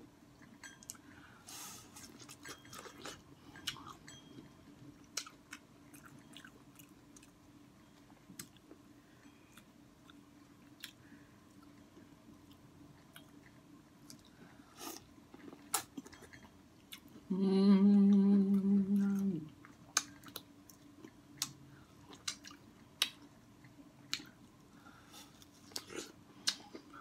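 Close mouth sounds of eating corn on the cob: biting kernels off the cob and chewing, with many short sharp clicks and smacks. About two-thirds of the way through comes a steady hummed "mmm" of about two seconds, the loudest sound.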